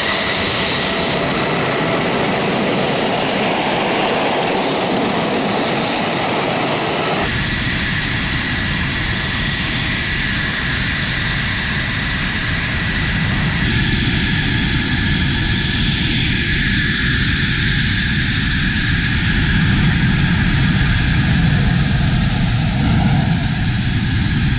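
F-16 fighter jet engine running loud and steady, a dense rush of noise with a high whine over it. The sound shifts abruptly twice, about seven and fourteen seconds in, growing deeper and somewhat louder in the second half.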